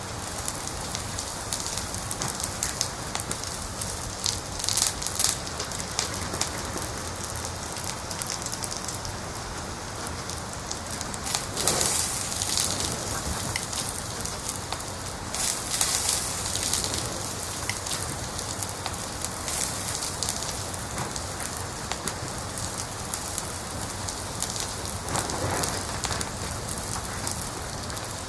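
Wood fire crackling in a fireplace: a steady hiss with frequent small pops and snaps, and a few louder clusters of crackles, the strongest about twelve and sixteen seconds in.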